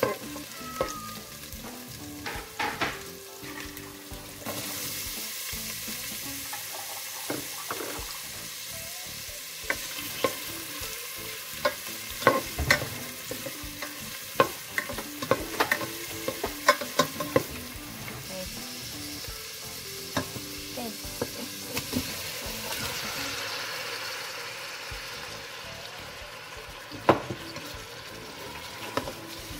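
Minced garlic and chopped onion frying in oil in a stainless steel pot, a steady sizzle. A stirring utensil clicks and scrapes against the pot many times.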